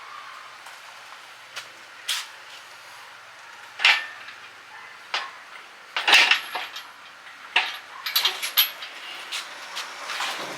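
Scattered metallic clinks and clanks, about seven or eight separate knocks with the loudest near the middle, as metal objects are handled and set down.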